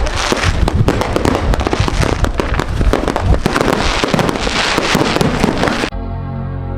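Fireworks popping and crackling in a dense, rapid barrage. It cuts off suddenly near the end and is replaced by music with a steady bass.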